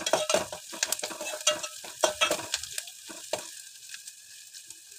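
A steel spoon stirring and scraping chopped onions, green chillies and curry leaves as they fry in oil in a metal pot, over a steady sizzle. The onions are being cooked until browned. The stirring thins out about three and a half seconds in, leaving mostly the sizzle.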